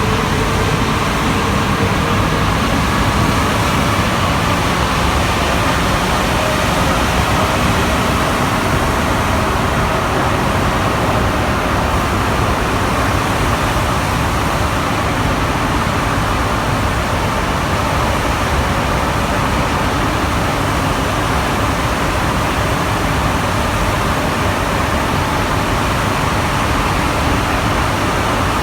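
NS-93 metro train running at speed, heard from inside the car: a steady rumble and hiss with a faint whine that drifts slightly in pitch.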